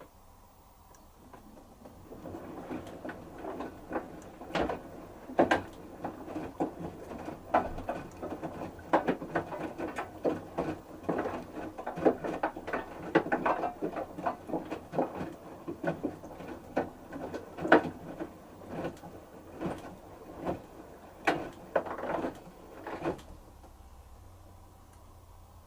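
Wet laundry tumbling in the drum of an LG direct-drive front-loading washing machine, with irregular soft knocks and water swishing as the drum turns. It starts about two seconds in and stops near the end, as the drum pauses in its wash rhythm.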